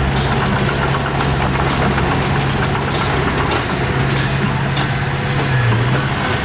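Heavy diesel engine of earthmoving machinery running steadily, with a brief dip in pitch about five and a half seconds in.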